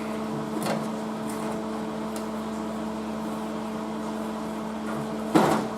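Steady machine hum, a few held tones, with a short, loud noisy burst near the end.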